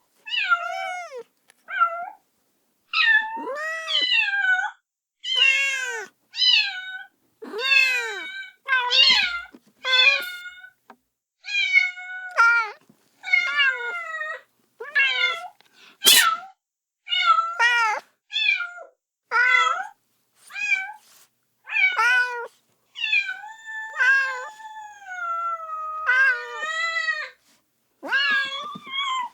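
Kitten meowing over and over, calling for its mother: high-pitched meows, one or two a second, each rising then falling in pitch, a few longer drawn-out calls about 23 to 27 seconds in. A single sharp click about 16 seconds in.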